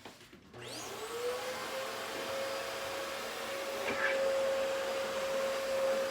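Upright vacuum cleaner's motor starting up about half a second in as its plug goes back into the wall: the whine rises quickly, then it runs steadily.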